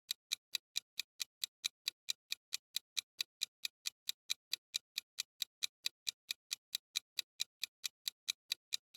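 Clock-ticking sound effect of a quiz countdown timer: evenly spaced sharp ticks, about three to four a second, counting down the time to answer.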